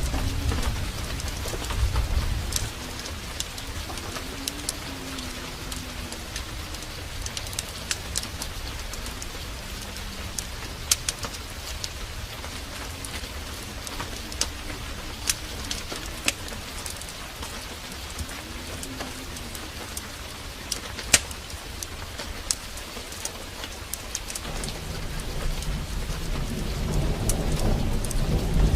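Heavy rain pouring steadily, with sharp crackles scattered through it. Low thunder rumbles near the start and builds again over the last few seconds. A dove coos a few times in between.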